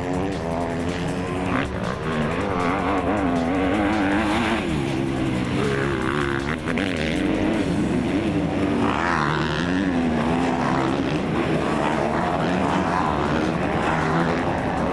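Several motocross motorcycles' engines revving up and down, overlapping, as the bikes race around the track.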